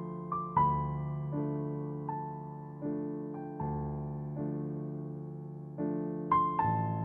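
Slow, soft piano music: single notes struck over sustained chords, each note fading away before the next.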